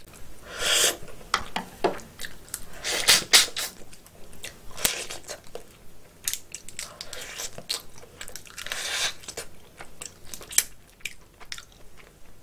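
Close-miked eating sounds of a person chewing cooked snow crab: wet mouth clicks and smacks, scattered small taps, and a few short breathy rushes.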